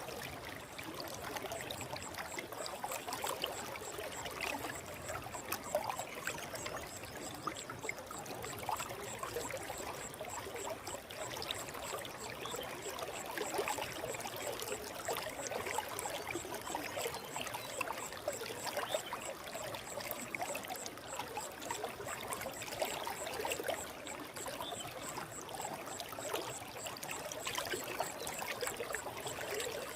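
Forest stream flowing steadily, a continuous trickling, bubbling rush of water.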